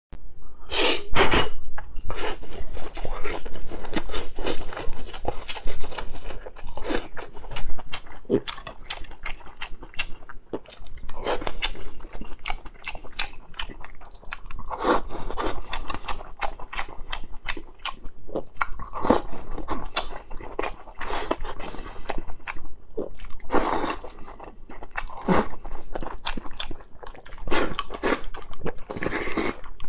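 A man chewing and biting mouthfuls of dry-fried green beans and rice close to a clip-on microphone: an unbroken run of irregular sharp chewing clicks, with louder bites now and then.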